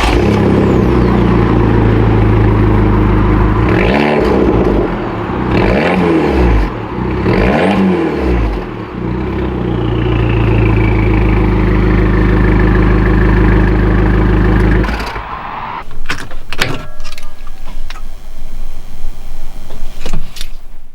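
Abarth 595 Competizione's turbocharged 1.4-litre four-cylinder idling through its exhaust, blipped three times about four to eight seconds in. The engine stops about fifteen seconds in, and a run of sharp knocks and clatter follows.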